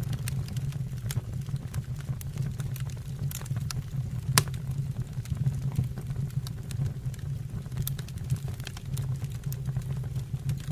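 Wood fire in a fireplace crackling, with irregular pops and one sharper snap about four seconds in, over a steady low rumble of the flames.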